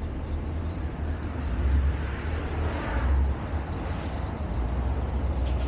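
Steady low rumble of a running vehicle, with a hiss that swells and fades about two to three seconds in.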